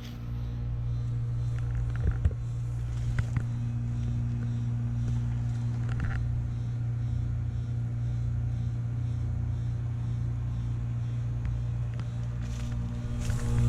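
1981 BDP 3-ton heat pump outdoor unit running with a steady low electrical hum, with a few faint clicks. The hum grows noticeably louder near the end.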